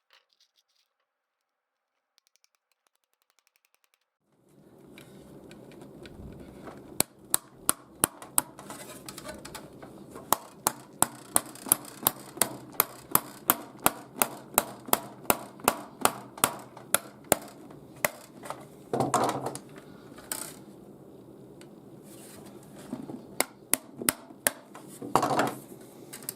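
Light hammer taps driving small nails, a long even run of sharp strikes at about two a second, then a shorter run near the end, over a steady low background hum.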